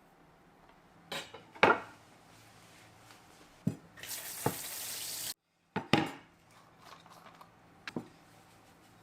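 Kitchen utensils and dishes knocking and clinking several times, the loudest knock near the start. Between about four and five seconds in there is a steady hiss lasting just over a second that cuts off abruptly.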